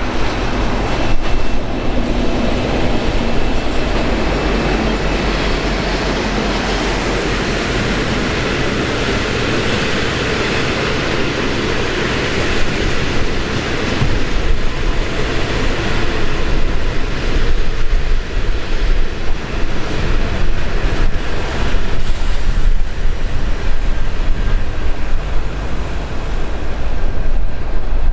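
A train passing close by: a steady, loud rumble of wheels on rail that turns choppier and more uneven about halfway through as the cars roll past.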